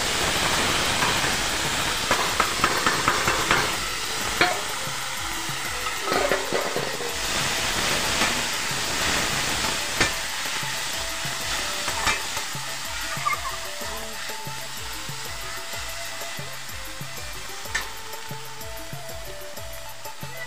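Small river prawns sizzling as they fry in hot oil in a wok, loudest in the first seconds just after they go in and easing a little later. A perforated steel ladle stirs them, with scrapes and occasional sharp taps against the pan.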